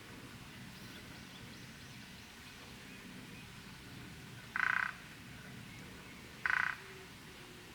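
Two short, loud animal calls, a little under two seconds apart, over a faint steady outdoor background.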